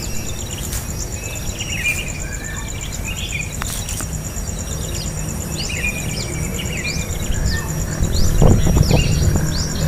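Birds giving short, repeated high chirps over a steady high-pitched insect buzz and a low background rumble, with a few low thumps near the end.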